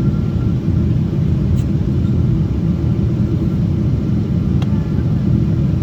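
Steady low rumble of engine and airflow noise inside a Boeing 777's passenger cabin as the airliner descends to land.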